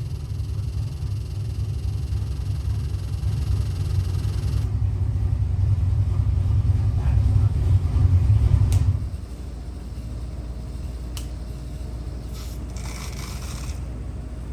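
Ford 408 cubic-inch Windsor stroker V8 running on an engine dyno, a heavy low rumble that grows louder toward about eight seconds in, then drops off sharply about nine seconds in to a quieter steady rumble.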